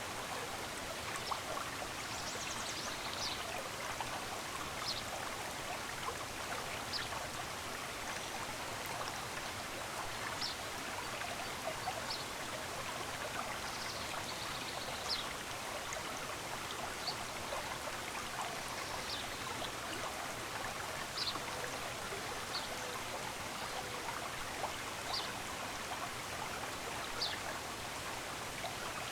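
Stream running steadily, with short high bird chirps every couple of seconds.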